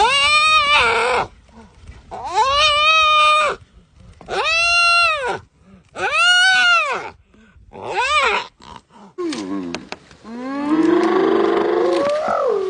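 A lion calling: five drawn-out, rising-and-falling cries about two seconds apart, then several lower, overlapping calls near the end.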